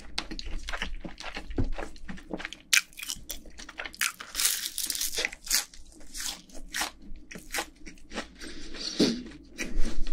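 Close-miked eating of crispy fried chicken: a rapid run of sharp, crisp crunches and chewing as the fried coating is bitten and chewed.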